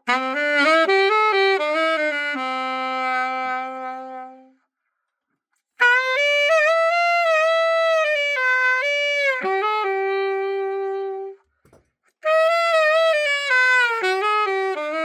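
Nova Sax AX-502 alto saxophone played solo, test-played after its setup. It plays three short melodic phrases, each cut off by a brief silence.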